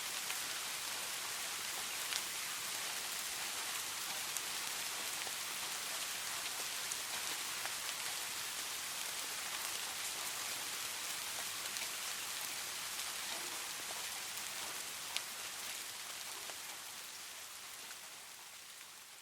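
Steady rain falling, an even hiss with scattered sharper drop ticks, fading down over the last few seconds.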